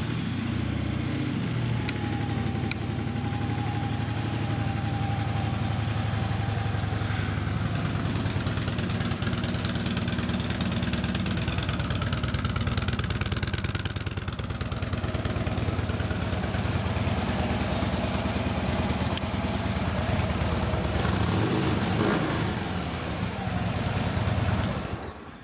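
2012 Harley-Davidson Street Glide's fuel-injected 103-cubic-inch Twin Cam V-twin idling steadily through its stock exhaust after a start, then shut off near the end.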